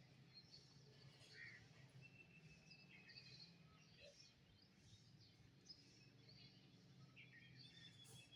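Faint birdsong: several birds giving scattered short chirps and thin whistles, over a low steady hum.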